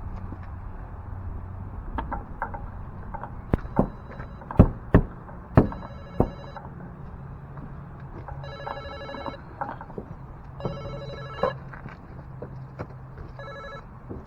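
A mobile phone ringtone rings in four bursts of about a second each, roughly every two and a half seconds, from about five and a half seconds in. Before and around the first ring come several sharp knocks and taps, the loudest a little under five seconds in, over a steady low hum.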